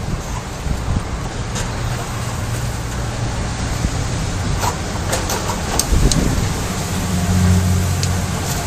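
A steady rushing noise with a low motor hum, like a road vehicle's engine, that grows louder in the second half, with a few sharp ticks.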